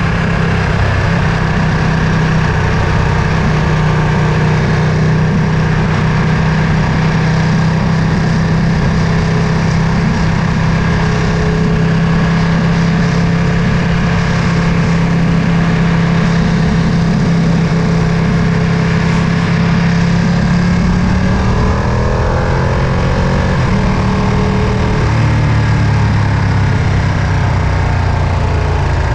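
Ducati Panigale V2's 955 cc Superquadro V-twin running at a steady note while riding. About two-thirds of the way through the note shifts and falls, then settles lower near the end.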